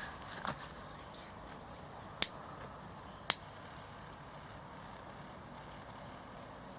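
Small wood fire crackling: two sharp pops about a second apart over a low, steady background.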